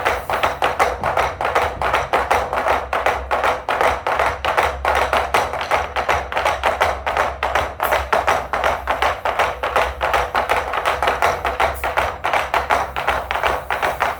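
Drum ensemble playing a fast, even run of sharp, clicky strokes, about six a second, the galloping rhythm that stands for horses' hoofbeats.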